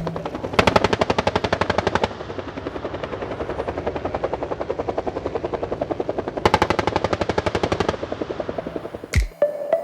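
Helicopter rotor chopping in a fast, even beat. It swells louder twice, as if the helicopter were passing close.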